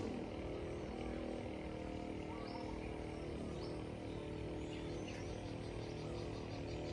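Outdoor ambience: a steady low hum with faint, short high-pitched chirps, turning into a quick regular series of chirps near the end.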